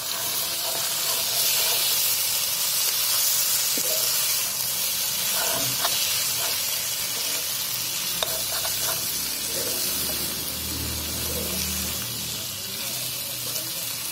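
Potato and capsicum sabzi sizzling steadily in a kadai over a wood-fired clay chulha, with a metal ladle scraping and clicking against the pan now and then as the vegetables are stirred.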